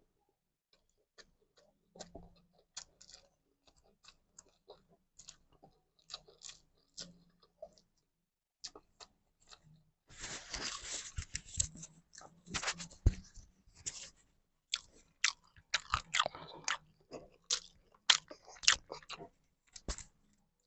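Close-up chewing and mouth sounds of someone eating fried egg and rice: scattered wet clicks and smacks, with crunchy bites that come thicker from about halfway through.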